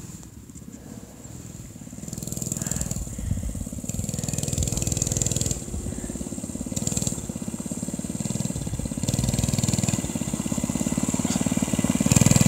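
Mini bike's small engine running, the level swelling and dropping back several times as the throttle is worked, and getting louder toward the end as the bike comes closer.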